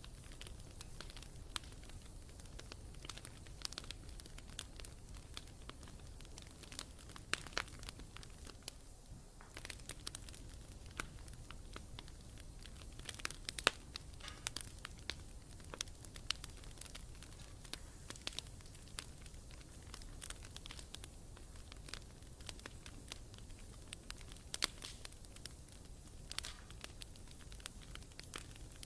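Wood fire burning steadily, with irregular crackles and sharp pops over a low rumble of the flames.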